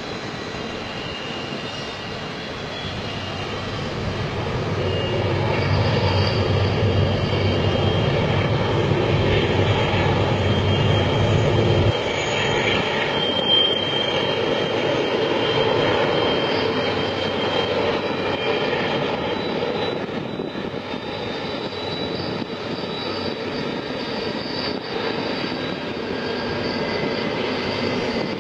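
A long train rolling past with a steady rumble and rush of noise that grows louder a few seconds in; the deep rumble drops away partway through while the rolling noise continues.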